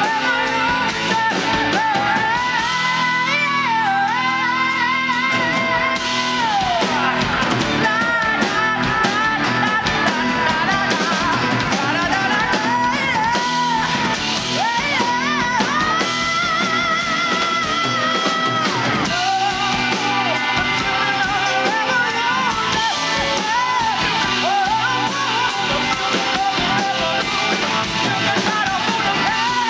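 Live rock-style song: a singer holding long notes with vibrato over electric guitar and a full band.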